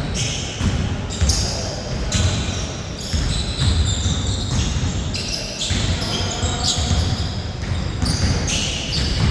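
Basketballs bouncing on a court during play, repeated thuds with short sharp sounds in between.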